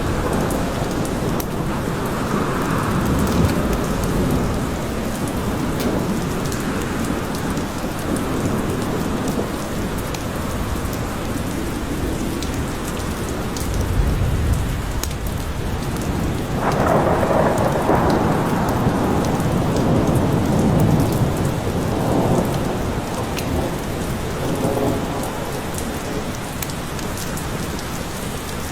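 Steady heavy rain with rolling thunder. The longest rumble swells up about two thirds of the way through and dies away over several seconds.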